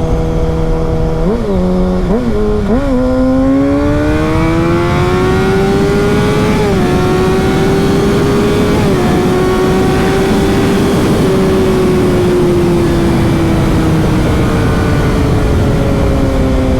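Sport motorcycle engine pulling away: a few quick throttle blips, then the engine note climbs steadily in one gear, drops at an upshift about seven seconds in and again near nine seconds, and settles into a steady cruise that eases off toward the end. Wind rush runs underneath throughout.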